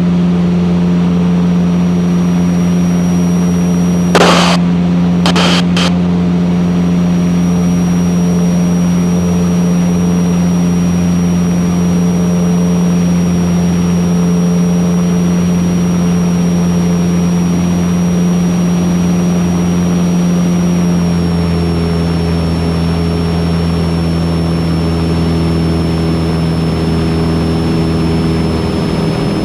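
Van's RV-8's four-cylinder piston engine and propeller droning steadily during the climb after takeoff, with a couple of brief sharp clicks about four and five seconds in. The engine note drops slightly about two-thirds of the way through.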